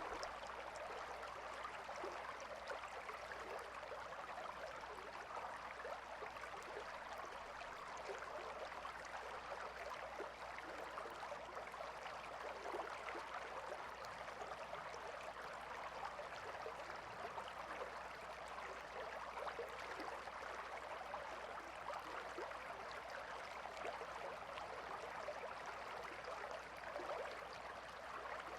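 River water flowing steadily over stones, a continuous rushing and babbling without breaks.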